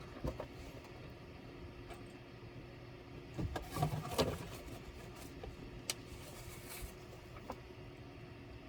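Scattered light clicks and taps of laptop parts being handled and taken apart, with a quick flurry of them about three and a half to four seconds in, over a steady low hum.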